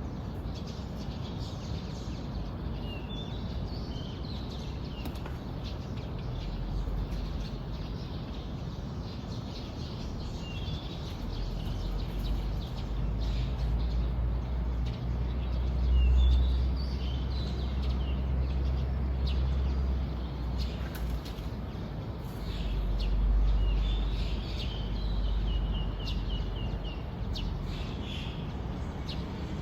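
Birds chirping, scattered short calls with a quick run of repeated notes in the second half, over a low rumble that swells twice.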